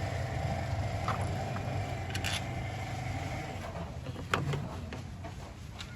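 A few sharp metallic clicks and knocks of hand tools and engine parts as a chain tensioner is fitted to a car engine, over a steady low hum.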